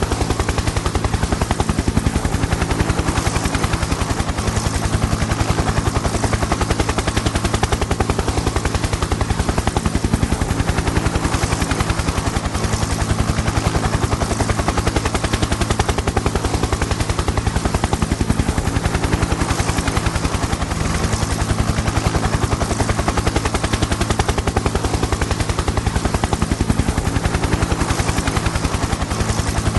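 Helicopter in flight: rotor blades chopping in a rapid, even beat over a steady engine drone, unchanging throughout.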